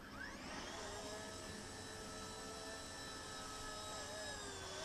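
Eachine E119 micro RC helicopter's electric motor spinning up in a rising whine, then running steadily with a thin whine that wavers a little in pitch as the throttle moves.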